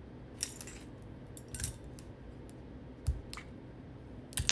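Scattered light clicks and clinks of small hard objects being handled, about six in all, with no motor running.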